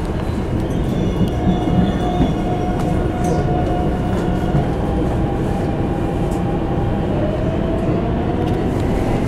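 Train running on the rails: a steady rumble with a faint whine held over it.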